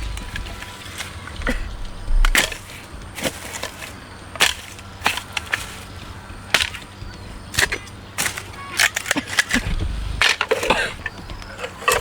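Irregular sharp snaps and knocks of wood being broken and handled, with a few duller low thumps, about two seconds in and again near ten seconds.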